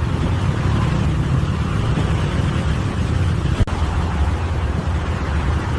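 Heavy diesel engine of earth-moving machinery running steadily, with one brief click a little past the middle.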